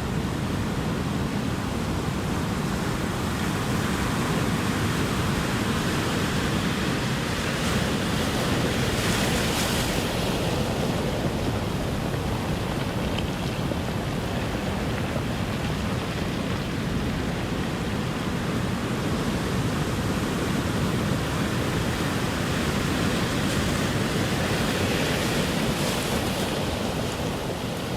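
Ocean surf: a continuous wash of waves that swells as waves break, about eight seconds in and again near the end.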